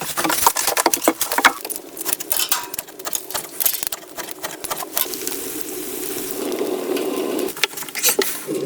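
Crackling and sizzling with scattered sharp clicks, settling into a steadier sizzle about five seconds in.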